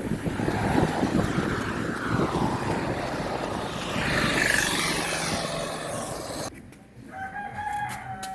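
A loud, steady rushing noise cuts off abruptly, followed about seven seconds in by a rooster crowing: one long held call lasting about a second and a half.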